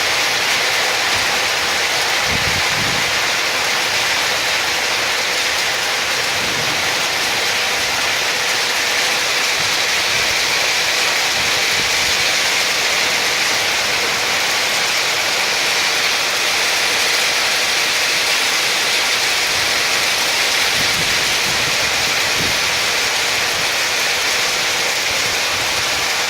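Hail falling heavily in a dense, steady hiss and patter that does not let up.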